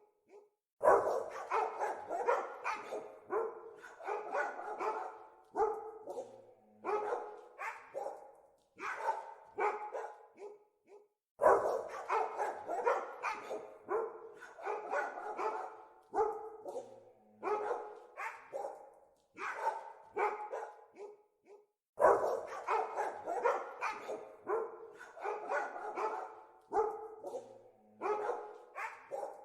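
Dogs barking in rapid, overlapping runs of short barks, broken by brief gaps, with a loud fresh volley starting about every ten seconds.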